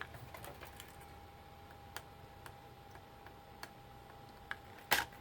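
Faint, sparse clicks and ticks of small plastic and metal parts being handled during disassembly, with two louder sharp clicks near the end, over a faint steady tone.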